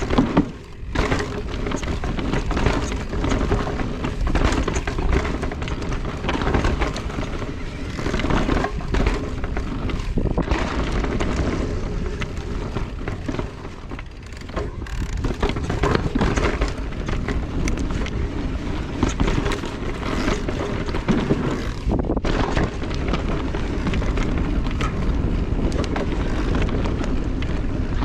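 Wind rushing over the microphone and the rattle of a carbon electric mountain bike ridden over rough trail: a steady rushing noise with many small knocks and rattles from the bike and tyres on the ground.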